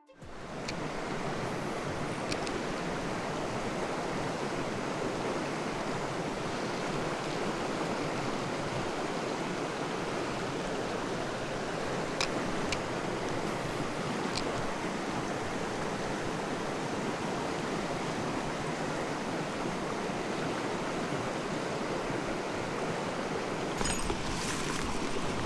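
Mountain stream rushing: a steady wash of flowing water, with a few faint clicks.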